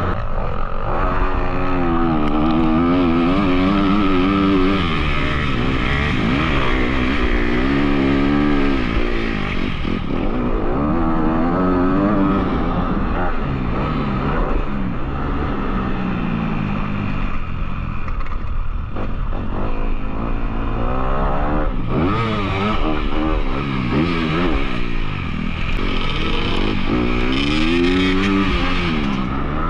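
Off-road motorcycle engine heard close up while riding, its pitch climbing and dropping again and again with throttle and gear changes.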